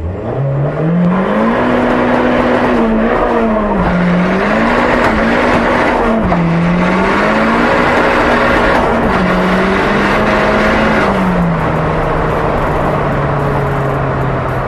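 VW Golf Mk1 engine pulling hard under acceleration. Its note climbs steeply at first, then dips and climbs again several times. Near the end it settles to a lower, steady note.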